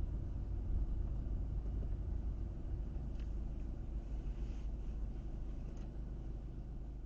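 Car driving at a steady speed: a continuous low rumble of engine and tyres on the road, with a few faint ticks in the middle.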